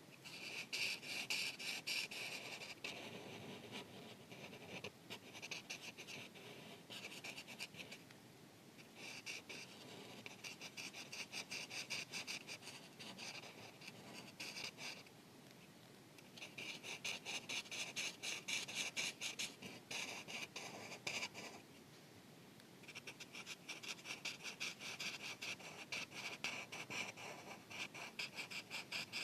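Marker tip scribbling on paper in quick back-and-forth coloring strokes. It comes in runs of several seconds with short pauses between.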